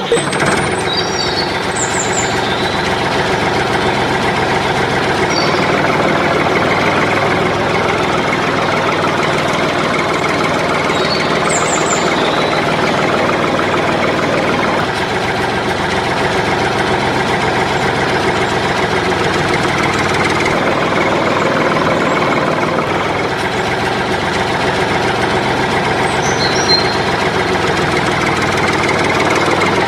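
Tractor engine running steadily at a loud, even level.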